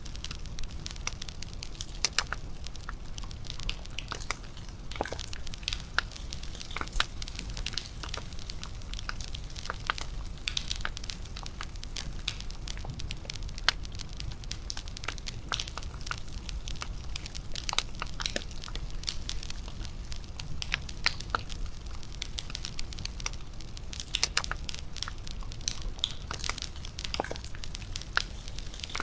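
Wood fire crackling, with irregular sharp pops and snaps over a steady low rumble of the burning.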